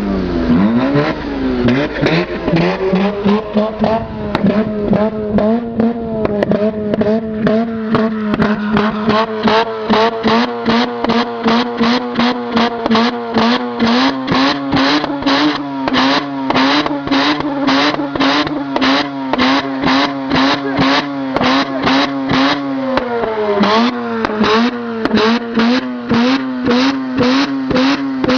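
Mazda RX-8's Renesis two-rotor rotary engine held at high revs, stuttering in a rapid even rhythm about two to three times a second, as when it bounces on the rev limiter. The revs dip briefly near the start, step up about halfway, and dip once more near the end.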